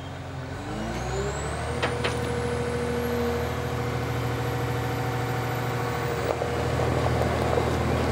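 Forestry harvester's diesel engine running, revving up about a second in and then holding steady, with a thin high whine climbing in pitch. Two sharp clicks come about two seconds in.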